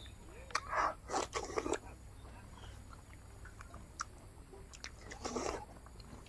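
A person chewing a mouthful of raw cucumber, with wet crunches in short bursts, the loudest around a second in and again near the end.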